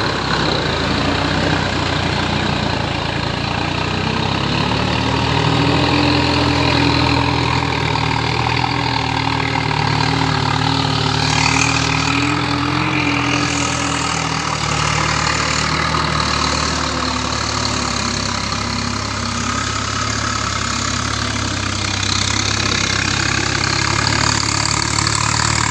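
Kubota tractor's diesel engine running steadily, its pitch drifting slightly up and down.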